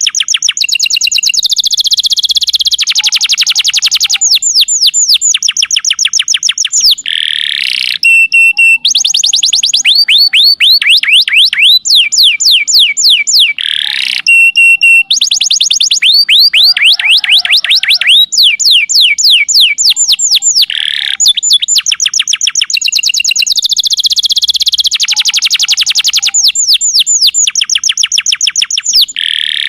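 Domestic canary singing a long, loud song of rapid trills: series of quick falling whistled notes, each trill shifting to another pattern every second or two.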